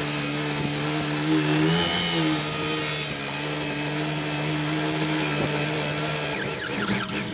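Electric power tool motor running steadily with a high whine. Near the end its pitch wavers up and down.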